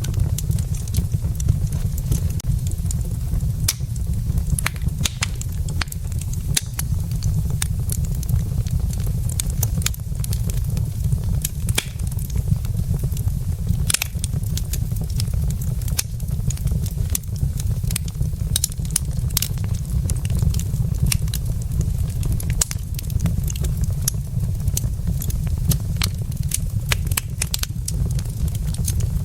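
Logs burning in a fireplace, crackling and popping in quick, irregular snaps over a steady low rumble.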